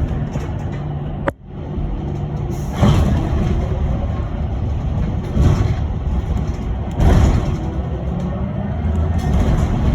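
Cabin noise of an electric bus under way: steady road and tyre rumble with a low hum. A sharp click just over a second in, and the noise swells briefly several times.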